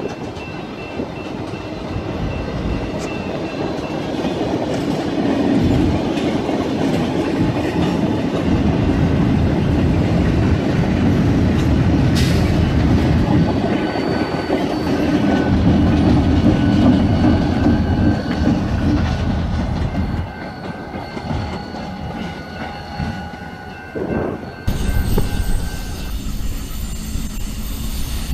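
Freight train rolling past close by: boxcar wheels clattering over the rails, building up over the first few seconds. An Illinois Central GP40R diesel locomotive goes by about halfway through. Near the end a cut brings a lower, steadier rumble as the next train, led by a CN GP38-2 locomotive, approaches.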